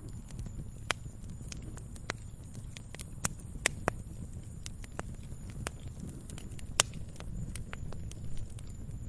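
Campfire burning and crackling: a steady low rumble of flames with irregular sharp pops and snaps, a few loud ones about a second in, around three to four seconds in, and near seven seconds.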